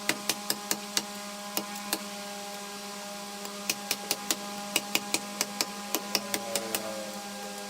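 Steady motor hum with irregular sharp knocks or taps over it, coming in quick runs of several a second in places: woodworking machinery running while wood is struck or worked.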